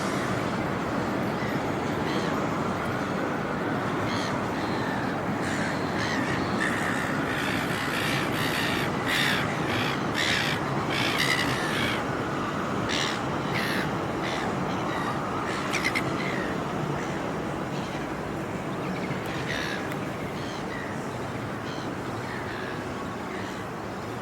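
Crows cawing repeatedly, the harsh calls bunched through the middle, over a steady rumble from the railway viaduct that eases a little toward the end.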